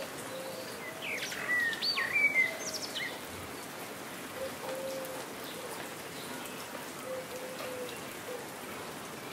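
Steady rain falling, with a songbird singing a quick burst of high chirps about a second in and soft low calls recurring in the background.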